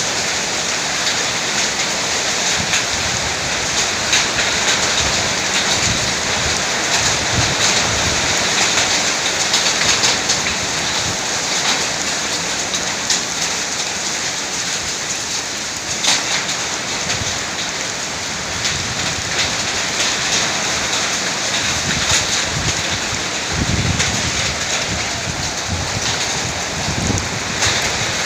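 Heavy summer-storm rain pouring steadily onto surfaces, with scattered sharp ticks of drops striking and occasional low rumbles.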